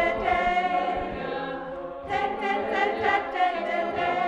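A group of voices singing together in long held notes, with a new phrase coming in about two seconds in.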